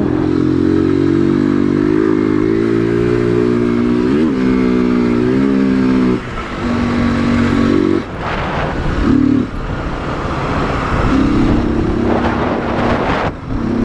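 Motorcycle engine running under throttle while riding, with a quick rev about four seconds in. About six seconds in the throttle eases off and the engine note drops, and in the second half a rushing wind noise mixes with an engine note that comes and goes.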